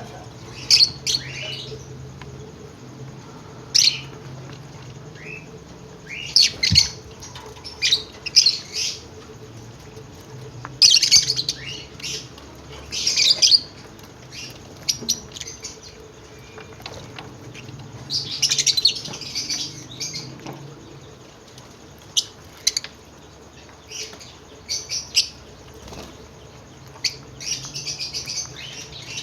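Several lovebirds chirping and screeching in short, shrill bursts, some in quick clusters, at irregular intervals, over a low steady hum.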